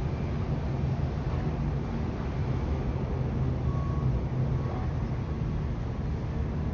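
Steady low rumble of outdoor city ambience, like distant traffic.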